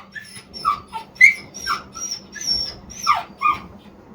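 Schnauzer whining in a quick string of short, high-pitched whimpers, some falling in pitch, begging to be given something.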